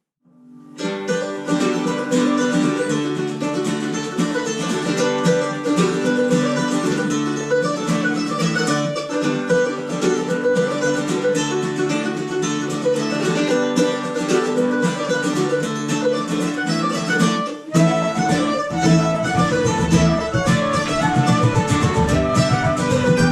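Celtic tune played on a Red Diamond mandolin with plucked-string accompaniment. About 18 seconds in it cuts abruptly to a fuller ensemble with a deep bass line.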